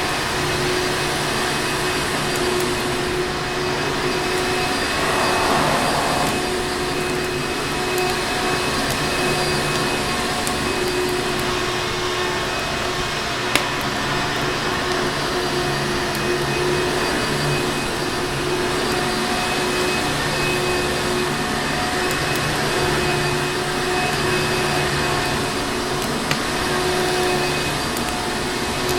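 Vacuum cleaner running steadily: a constant motor hum and whine over a rush of air. It is layered with a few sharp crackles from a wood fire, one plain crackle about halfway and another near the end.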